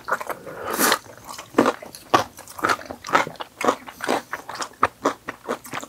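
Close-miked chewing and biting of sweet-spicy sauced boneless fried chicken, with irregular wet smacks and crunches a few times a second.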